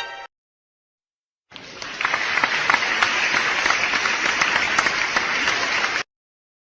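Crowd applause, many hands clapping. It starts softly, swells half a second later, holds steady, and cuts off abruptly.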